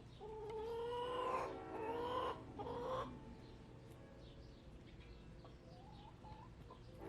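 A chicken gives a long, drawn-out call in three parts, each rising slightly in pitch, lasting about three seconds. Faint small-bird chirps follow.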